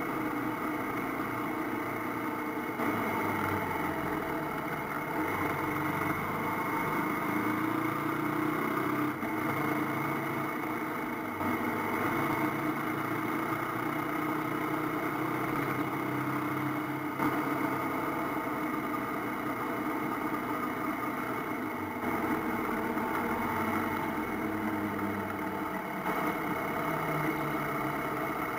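AKT TT 250 Adventour motorcycle engine running while riding, heard from the bike itself, with a steady wind-and-road hiss; the engine note shifts up and down several times with the throttle.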